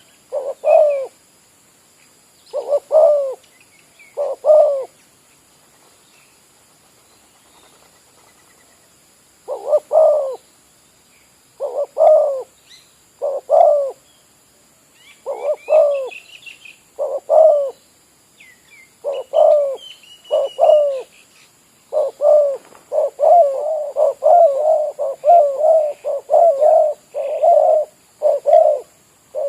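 Spotted dove (terkukur) cooing: repeated short phrases of paired coo notes, with a pause of several seconds early on, then a quicker, almost unbroken run of coos near the end. Faint higher chirps of small birds come in around the middle.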